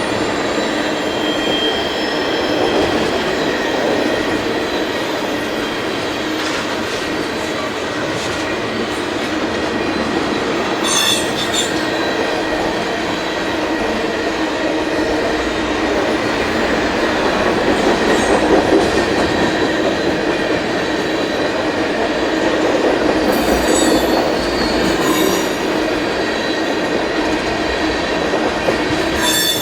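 Freight cars of a Canadian Pacific manifest train rolling past on steel wheels: a steady rumble of wheels on rail with a faint squeal, and a few sharp clanks about eleven seconds in and again near the end.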